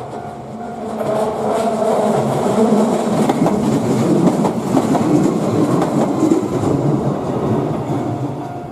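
Shizuoka Railway electric train passing close by, its wheels running over the rails. It grows louder about a second in, stays loudest through the middle and eases off near the end.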